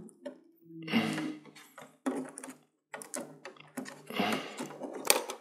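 Handling noise of a TV being taken apart: a run of short scrapes, clicks and knocks of plastic and metal parts, about one a second.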